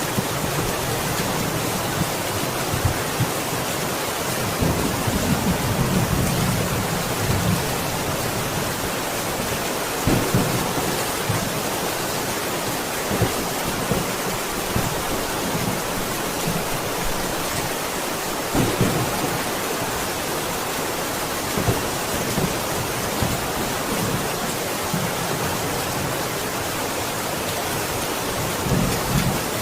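Steady heavy rain, a dense even hiss, with brief low rumbles of thunder swelling up several times.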